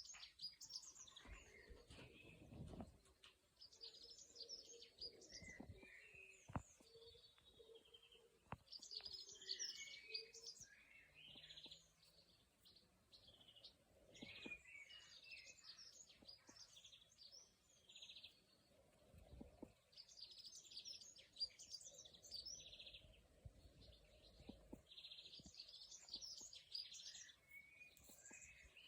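Faint dawn chorus of several songbirds singing at once, with short chirping and trilling phrases overlapping and repeating throughout.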